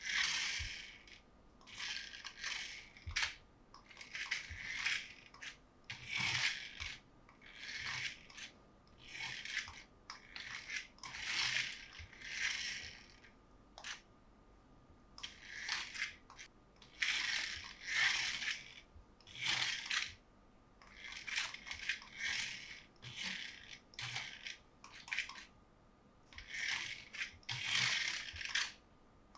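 Hands rustling and crinkling toy packaging in a run of short scraping strokes, roughly one a second, with brief pauses between them.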